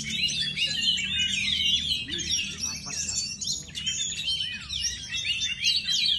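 Oriental magpie-robin (kacer) singing a fast, continuous run of varied chirps and short sweeping whistles.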